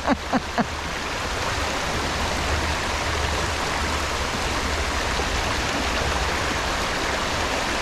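Steady rushing of a small stream's water, with a few short sharp clicks in the first half second.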